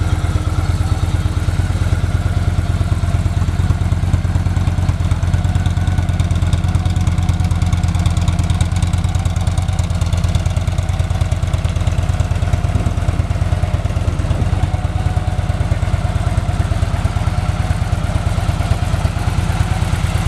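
2013 Victory Cross Country Tour's 106 cubic inch V-twin idling steadily through a Victory Performance touring exhaust, with an even, deep pulse.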